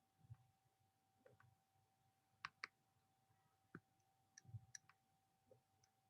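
Near silence with faint, scattered clicks: a pair about two and a half seconds in and a small cluster near four and a half seconds, over a faint steady hum.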